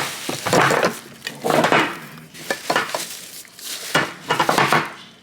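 Groceries clattering as they are handled and set down: several separate bursts of knocking and rattling, about one a second.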